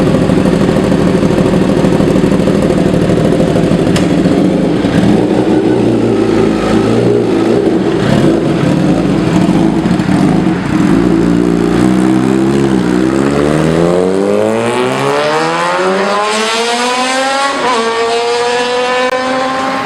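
Sport bike engine and exhaust running loud for about twelve seconds, then accelerating in a long rise in pitch, with a brief dip near the end.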